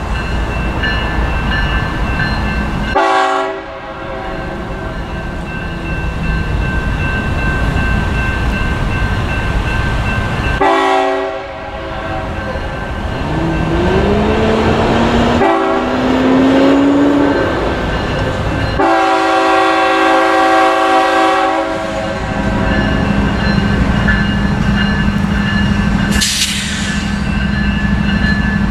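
Freight train locomotive horn sounding three blasts (a short one about three seconds in, a longer one around eleven seconds, a long one from about nineteen to twenty-two seconds), over the steady rumble of the train rolling by. A rising whine can be heard in the middle.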